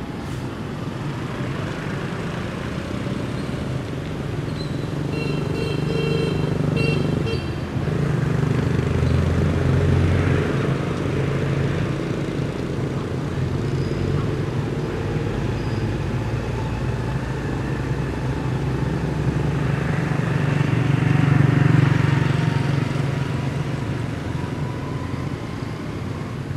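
Motor vehicle engines running with a steady low hum. It grows louder about eight seconds in and again about twenty-two seconds in.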